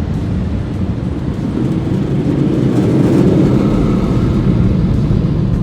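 Car wash air dryer blowers rushing over a pickup truck, a loud steady roar that swells about two seconds in and falls away at the very end.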